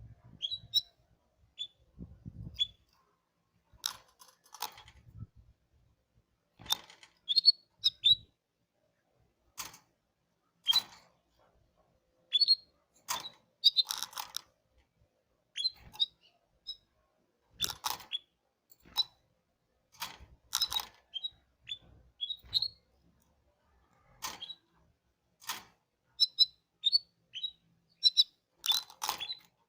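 Canary giving short, high chirps and call notes in scattered bursts rather than a continuous song, with many sharp clicks among them.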